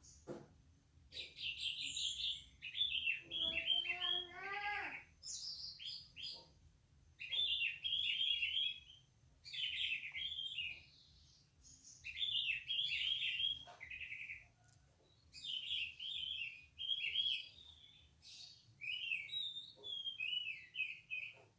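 Orange-headed thrush (anis merah) singing full, persistent song: bursts of quick, varied high notes, each phrase a second or two long, with short pauses between. A lower rising call sounds about four seconds in.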